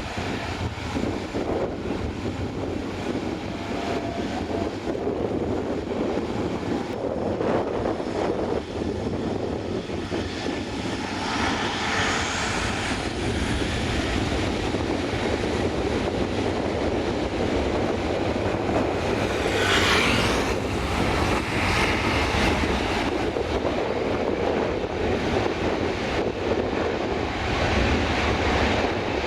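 An airliner's engines as it passes close by, loudest about twenty seconds in, with wind buffeting the microphone.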